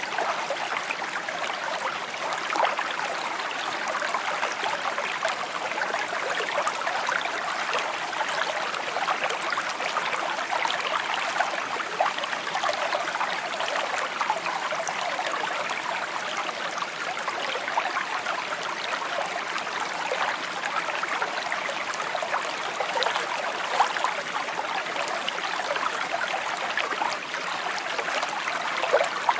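Shallow stream babbling and trickling over stones, a steady bright burble of running water.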